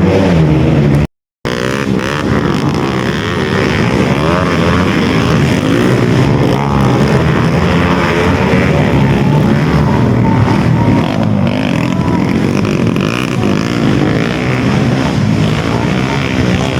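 Several trail motorcycle engines running and revving at once, their pitches overlapping and shifting, with a brief break in the sound about a second in.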